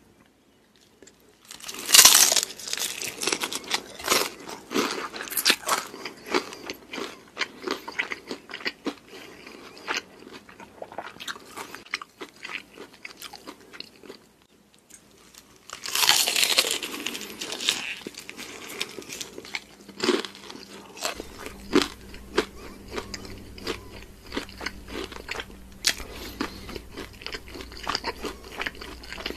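Close-up crunching of fried chicken: a loud bite into the crispy coating about two seconds in, then rapid crunchy chewing, and a second loud bite about sixteen seconds in, followed by more chewing.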